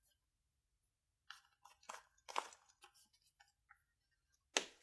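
Faint chewing of crunchy freeze-dried beef liver pieces: scattered soft mouth clicks and crunches, with one sharper, louder one near the end.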